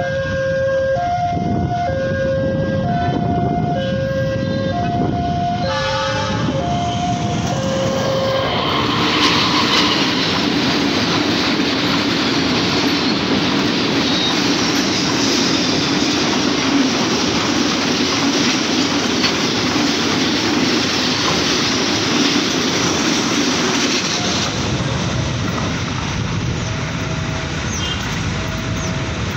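Railroad crossing warning alarm sounding in an alternating two-tone pattern. After about eight seconds a fast freight train of fuel tank wagons passes, a loud rushing rattle of wheels on rails that drowns out the alarm for about fifteen seconds. The train noise drops off near the end and the two-tone alarm is heard faintly again.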